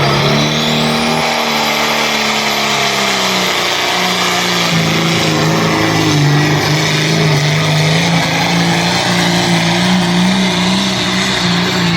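Pulling tractor's 5.9 Cummins diesel running hard under load during a pull, a loud steady engine note. A high whine climbs steeply in pitch over the first two seconds.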